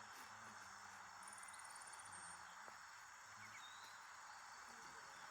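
Faint, steady rainforest insect chorus, with a short run of rapid, very high-pitched pulsing a little over a second in. Faint distant voices murmur underneath.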